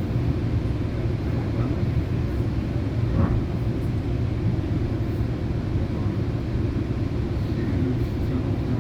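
Steady low rumble inside a Rail Runner commuter train's passenger coach, with a faint short knock about three seconds in.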